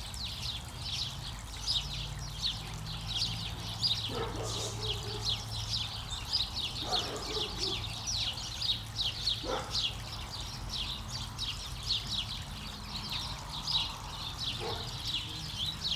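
Many small birds chirping, a dense run of short high chirps several a second, with a few lower calls sliding downward every couple of seconds, over a steady low hum.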